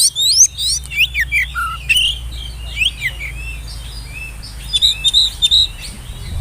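Oriental magpie-robin singing a rapid run of varied whistled notes that rise and fall, busiest in the first few seconds, then sparser, with a quick cluster of short notes about five seconds in. A low steady hum runs underneath.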